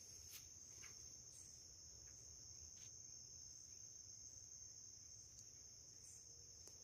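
Faint, steady, high-pitched insect trill, cricket-like, unbroken throughout, with a few faint clicks over it.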